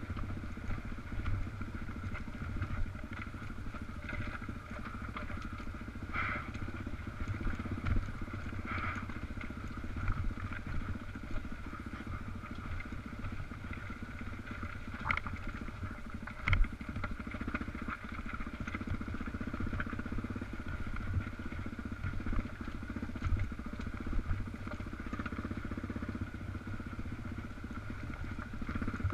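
Dual-sport motorcycle engine running steadily on a trail ride, with scattered short knocks and clatter from the rough ground. A sharper knock comes about halfway through.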